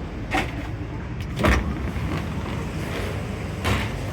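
Passenger train running: a steady low rumble, broken by three short knocks.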